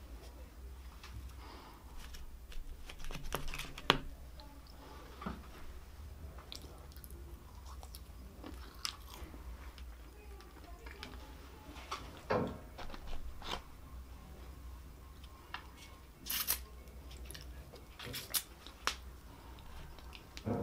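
Close-miked chewing and biting of French fries, with scattered sharp crunches and mouth clicks, the loudest about four seconds in, over a faint low hum.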